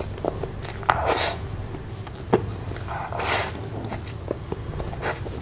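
Close-miked eating sounds of a mouthful of soft cream-frosted butterscotch cake being chewed: many wet smacking clicks of lips and mouth, with two louder breathy, hissing bursts, one about a second in and one about three seconds in.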